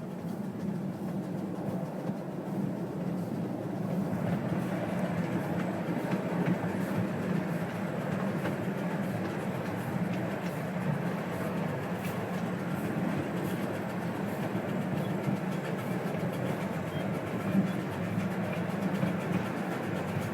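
12-inch gauge steam locomotive running with its train: a steady running noise with many small clicks, growing louder about four seconds in.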